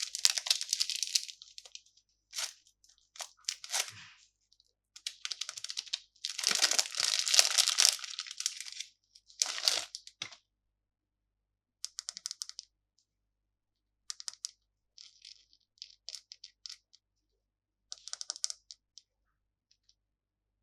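Candy packaging being handled and torn open, crinkling and tearing in dense bursts through the first half, then a few short crackles with pauses between them.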